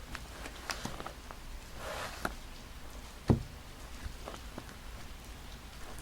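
Paper and sticker handling: scattered light taps, clicks and a brief crinkly rustle, over a steady background of rain hiss. A single low thump about three seconds in is the loudest sound.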